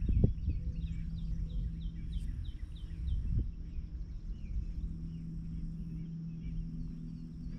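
A bird calling in a quick run of short falling chirps for about three seconds, over a low steady hum and rumble.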